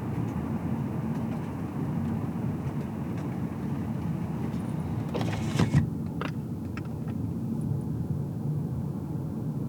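Car cabin on the move: a steady low rumble of tyres and engine. A little past halfway comes a brief cluster of clicks and knocks, the loudest moment, with a few single clicks after it, and the higher hiss of the road noise then drops away.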